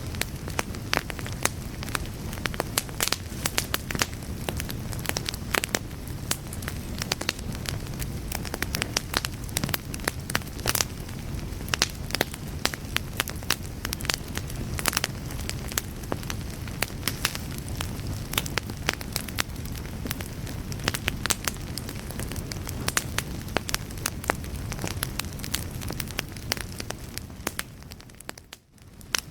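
Wood fire burning in a fireplace: constant crackling and sharp pops over a low steady rush of flame. The sound dips away briefly about a second before the end, then returns.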